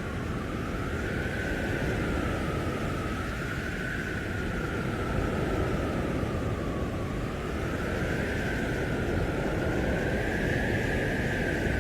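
Storm wind howling in a blizzard: a steady low rumble with a whistling howl that swells and rises in pitch, then falls back, every two to three seconds.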